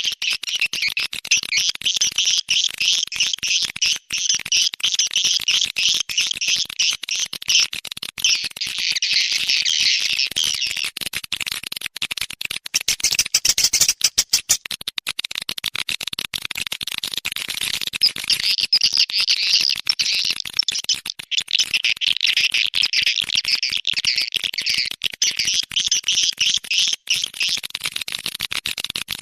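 Swiftlet lure recording: dense, rapid twittering chirps of edible-nest swiftlets, played as a sound lure to draw the birds into a swiftlet house. In the middle the twittering thins out to a stretch of rapid sharp clicks, then comes back.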